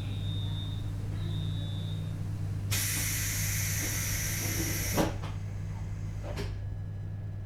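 Inside a JR Hokkaido 721 series electric train car: two short high beeps, then about two seconds of compressed-air hiss that stops with a sharp knock, and a lighter knock about a second and a half later. The car's steady electrical hum runs underneath.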